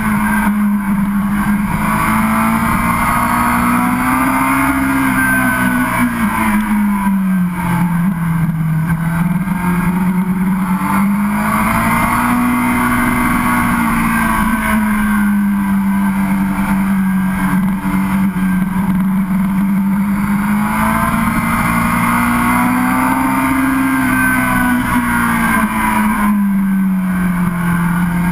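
Sport motorcycle engine heard from onboard, running steadily at cruising revs with its pitch gently rising and falling every several seconds, over wind rush.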